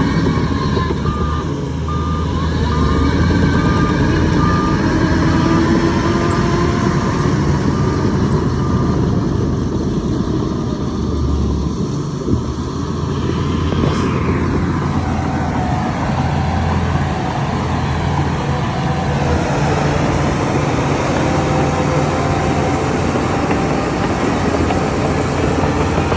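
Heavy diesel machinery engine running steadily, with a reversing alarm beeping evenly through the first third. There is a single sharp click about halfway through.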